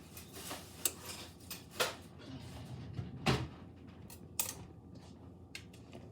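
A few scattered knocks and clatters of kitchen items being handled, the loudest about three seconds in.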